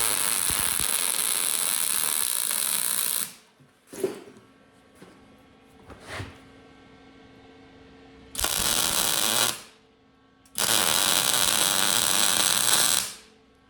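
Electric arc welder sizzling as it lays weld beads on steel, the steady frying 'bacon sound' of a smooth arc, in three runs: one stopping about three seconds in, a short one around the middle and a longer one near the end. A few light knocks of metal are heard in the pauses.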